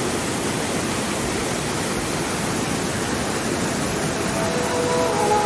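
Steady rushing of a waterfall, with music fading in near the end.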